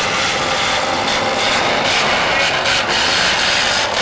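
Engines of several demolition derby cars running together as they push at one another, a loud, steady, dense noise.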